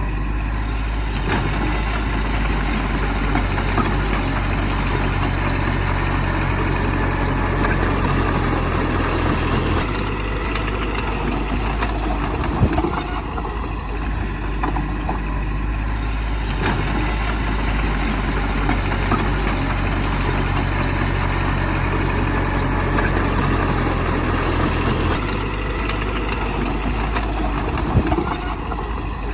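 Bulldozer's heavy diesel engine running steadily. Its note shifts as the load changes about a third of the way in and again near the end, and two sharp knocks come through.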